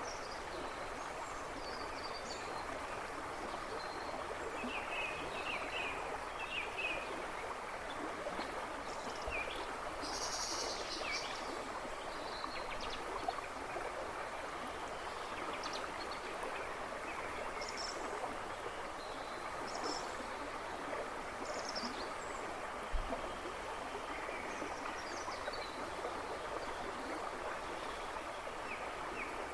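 A river rushing and babbling steadily over stones, with small birds chirping here and there in the woods behind it.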